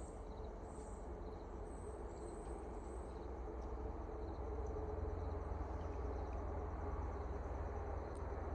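Outdoor ambience: insects chirping in short high pulses over a steady low rumble.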